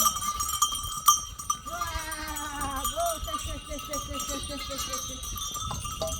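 Bells on a herd of sheep and goats ringing continuously, with animals bleating; from about two seconds in comes a quick run of short repeated calls.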